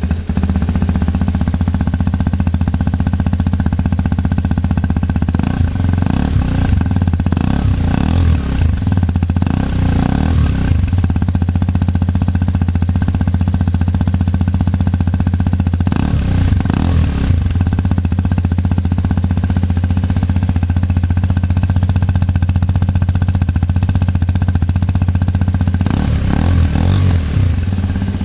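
Hero Xpulse 210 motorcycle's single-cylinder engine idling through its exhaust, with a few short throttle blips along the way.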